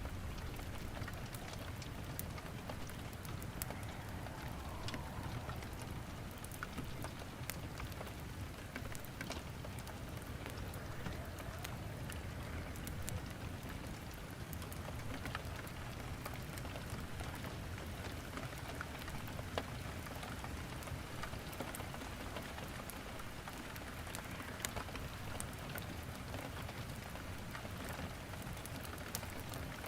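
Steady rain falling, mixed with scattered sharp crackles and pops of wood burning in a fireplace.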